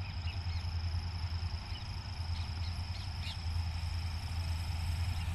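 Low steady rumble of an electric-hauled express train approaching in the distance, with scattered short bird chirps and a steady high whine over it.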